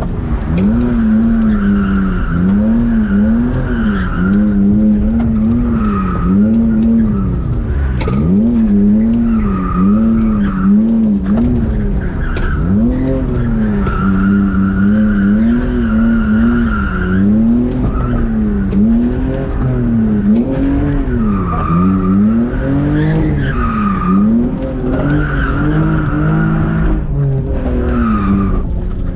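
BMW E46 drift car sliding on track. The engine revs rise and fall over and over as the throttle is worked, and the tyres squeal in long stretches between.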